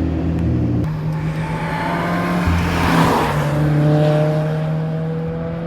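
Car engine running as a car drives past, loudest about three seconds in, with steady engine hum before and after.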